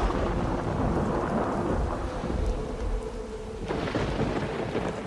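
Rain falling steadily with low rumbling thunder; the hiss of the rain brightens about three and a half seconds in.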